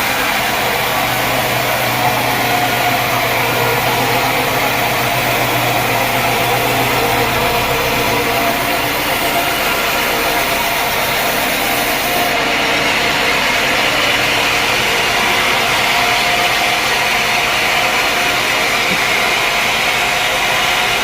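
Sawmill machinery running steadily: a loud, even mechanical noise, with a low hum underneath that stops about eight seconds in.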